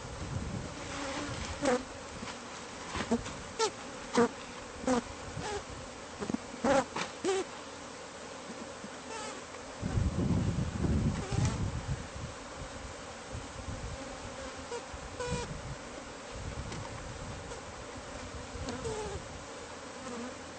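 Honeybees from a hive opened in a house wall buzzing steadily, with many sharp clicks and taps scattered through the first half and a short stretch of low rumbling about halfway through.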